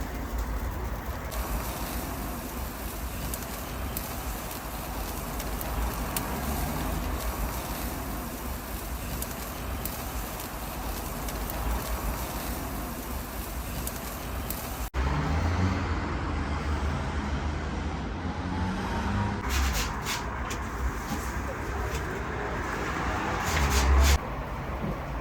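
Street-side background noise: a steady rumble and hiss like passing traffic, with a few sharp clatters around 20 and 24 seconds in.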